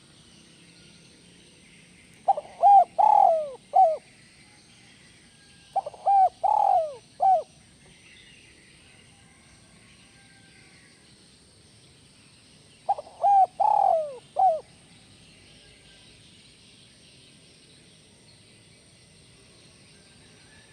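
Spotted dove (tekukur) cooing: three phrases of its song several seconds apart, each a few quick notes ending in one short separate note, the 'kuk 1' song style. A faint high hiss runs underneath.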